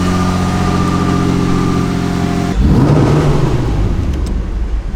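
Toyota MR2 engine idling steadily, then revving up louder and rougher about two and a half seconds in, through an exhaust freshly resealed with new gaskets.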